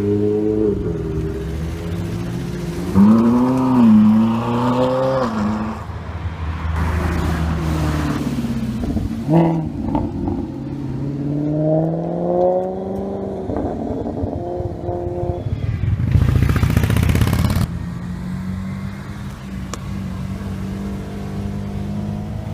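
Supercar engines revving, their pitch climbing and dropping several times over idle. A loud hard burst of engine noise comes about sixteen seconds in, then an engine settles to a steady idle.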